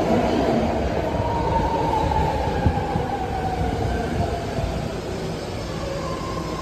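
BART Fleet of the Future train braking to a stop, its electric motors giving a falling whine over the low rumble of wheels on rail. A steadier tone holds once it slows near the end.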